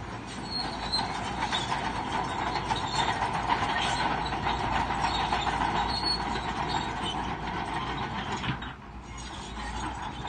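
Crawler bulldozer at work: steel tracks clanking with a steady squeal over the running diesel engine, dipping briefly near the end.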